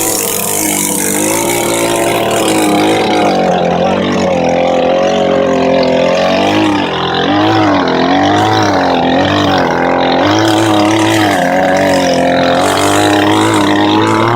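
Two-stroke chainsaw running at high revs while cutting wood, its engine pitch wavering up and down under load. Right at the end the throttle is released and the revs drop away quickly.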